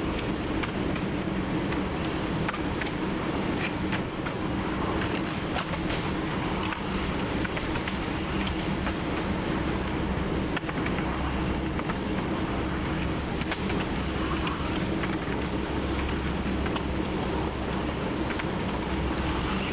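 TU7 narrow-gauge diesel locomotive running steadily under way: an even engine drone over a low rumble, with scattered clicks from the wheels on the track.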